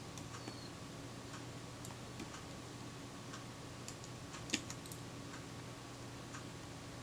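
Faint, scattered small metallic clicks of a small screwdriver and tiny screw against a Kodak Retina IIIc camera body as the screw refuses to start in its thread, with one sharper click about four and a half seconds in. A low steady hum runs underneath.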